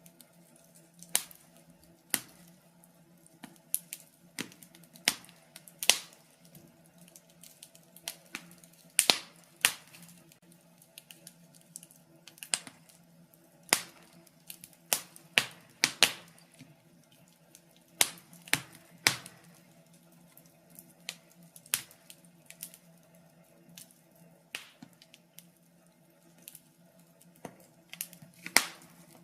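Wood fire crackling in a fireplace: irregular sharp pops and snaps, one or two a second, some much louder than others, over a faint steady hum.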